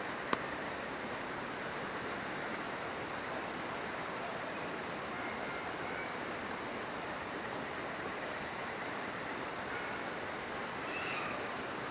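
Steady rushing of a river, with one sharp pop of a burning campfire log just after the start.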